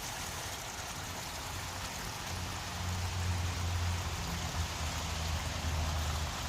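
Steady rain falling and pattering on surfaces, an even hiss. A low rumble joins it about two and a half seconds in.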